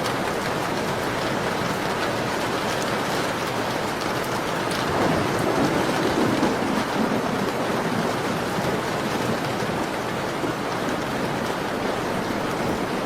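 Steady rain pattering on a window, a dense even hiss that swells louder and deeper for a couple of seconds about five seconds in.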